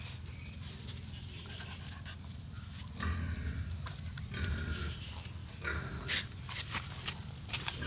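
A dog panting in quick, uneven breathy bursts, starting about three seconds in.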